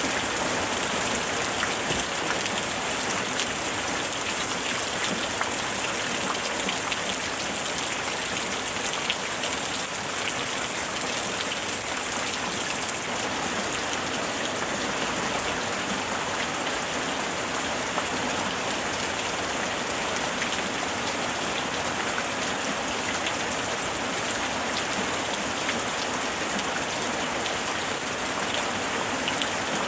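Steady rain falling: a constant hiss with many separate drop ticks scattered through it.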